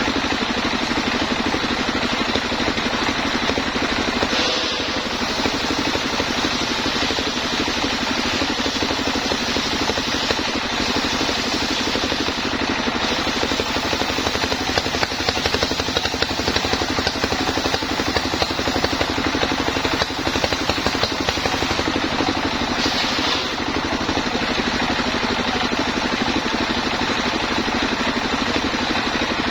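Homemade sawmill running steadily: its engine and the machinery it drives give a continuous mechanical drone, with brief changes in the sound about four seconds in and again near twenty-three seconds.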